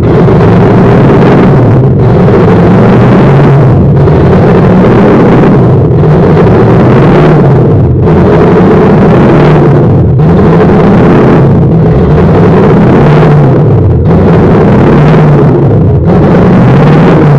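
Toyota 1UZ-FE V8 engine running loud, its pitch rising and falling as it revs, with a short dip in the sound about every two seconds.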